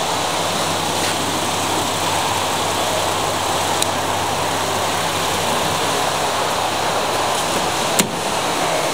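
2005 Holden Commodore's 3.6-litre Alloytec V6 idling steadily with its bonnet open, a smooth, even run. A single sharp click sounds near the end.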